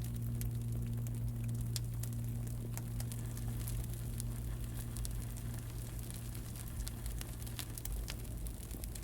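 Campfire crackling, with scattered small pops over a steady low hum.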